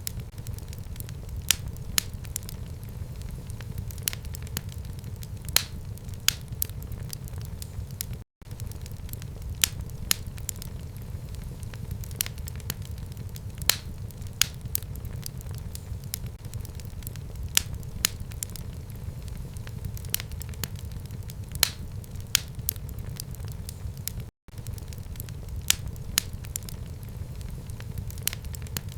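Fire crackling in a home fireplace: irregular sharp pops and snaps, several a second, over a steady low rumble of the flames. Twice the sound cuts out for an instant and resumes.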